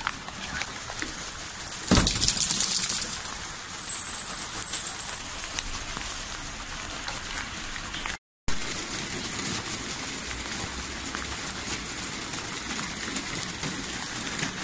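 Steady hiss of rain falling on a paved courtyard, with a louder rush of noise about two seconds in. The sound cuts out briefly near the middle.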